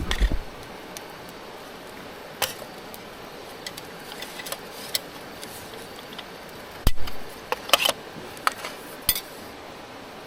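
Light clinks and taps of metal camp cookware and utensils, a few at a time, over a steady background hiss. The busiest cluster of clinks comes about seven to eight seconds in.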